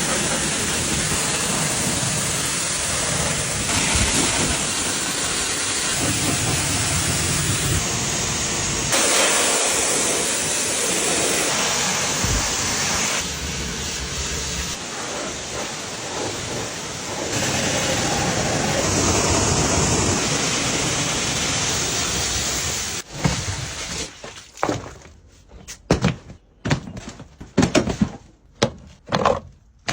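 A high-pressure cleaning jet hissing steadily against the car, its tone shifting abruptly now and then as it moves over different surfaces. It cuts off about 23 seconds in, and short, irregular clatters and knocks follow.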